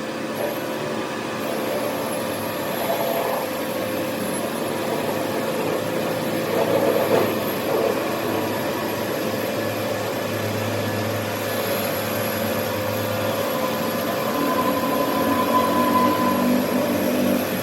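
Workshop power machinery running steadily: a continuous mechanical hum with a thin, high whine held over it.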